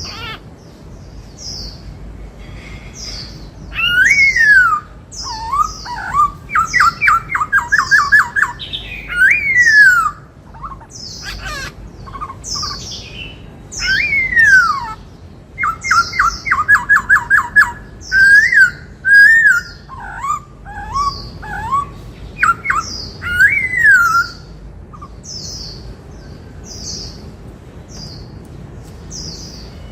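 Black-throated laughingthrush singing loud whistled phrases: falling slurred whistles and fast runs of repeated notes, in the song type named after the Indian cuckoo's 'bắt cô trói cột' call. The song comes in bouts through the middle and stops a few seconds before the end, while thin high chirps repeat steadily throughout.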